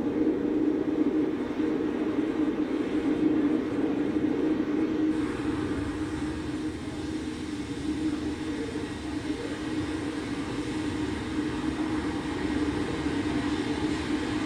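Steady engine drone with a constant low hum, and a rushing hiss that grows stronger about five seconds in.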